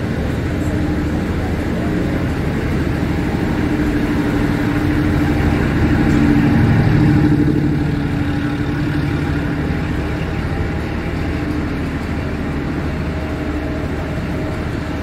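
Passenger train standing at a platform, its machinery running: a steady low hum with a few held tones, a little louder about six to seven seconds in.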